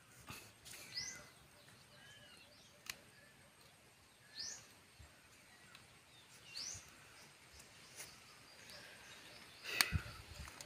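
A bird calling repeatedly: three short, high, upward-sweeping calls a few seconds apart over faint outdoor background noise. A sharp knock near the end is the loudest sound.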